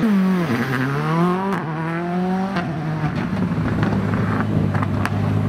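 Rally car engine revving and accelerating away, its pitch climbing with one gear change about one and a half seconds in. After about two and a half seconds it gives way to a steadier, lower engine drone with a few sharp clicks.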